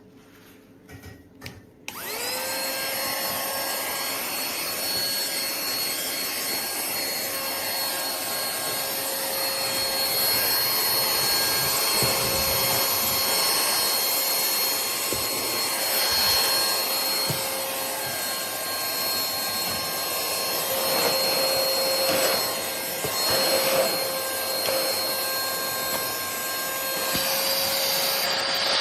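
YUEJIDZ cordless handheld vacuum cleaner, after a few clicks, switched on about two seconds in. Its motor spins up to a steady whine with a rushing hiss and runs, then cuts off near the end.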